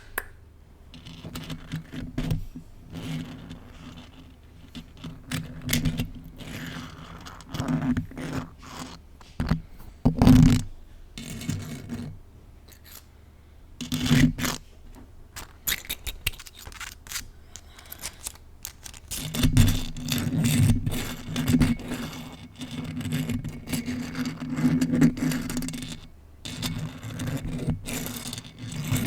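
Plastic spiral fidget toy being worked close to the microphone, giving a run of irregular scraping and scratching strokes that grow busier about two-thirds of the way in.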